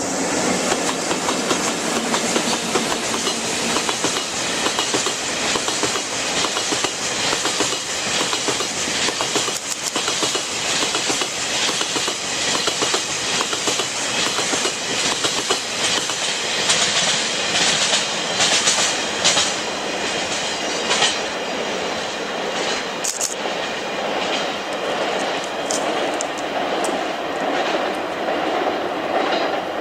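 Freight train hauled by a pair of EF64 electric locomotives passing close by, its wheels clattering steadily over the rail joints. A few brief sharp high squeaks or clanks ring out in the second half.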